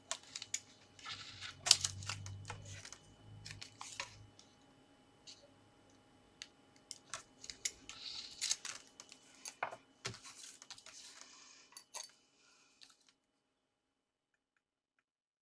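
Card and paper pieces of a pop-up box being handled and pressed together: rustling and crinkling with sharp taps and clicks, falling silent near the end.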